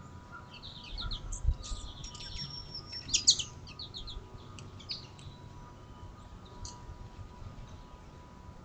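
Small songbirds at a feeder chirping and twittering in quick, high notes, busiest and loudest in the first few seconds and thinning out after that. A soft low thump comes about a second and a half in.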